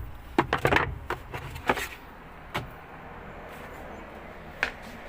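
Several sharp clicks and knocks in the first two seconds, then a few single clicks over a steady low background hiss: the fan on a washing machine's gearbox being worked up and off with a piece of wire.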